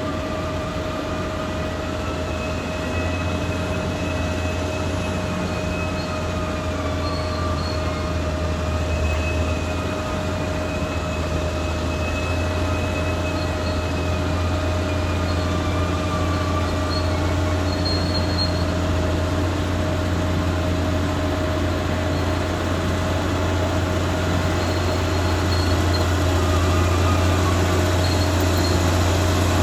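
Caterpillar D6R XL bulldozer's diesel engine running steadily with a deep hum, a high whine wavering above it, growing slightly louder toward the end.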